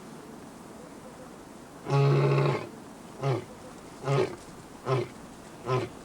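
Lion roaring: one long roar about two seconds in, then a string of shorter grunting roars, each about a second apart.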